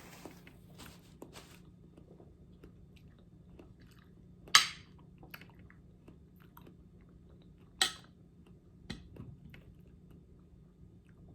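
Crisp bites into a raw apple slice dipped in caramel: two loud crunches, about four and a half seconds in and again near eight seconds, a smaller one just after, with quiet chewing in between.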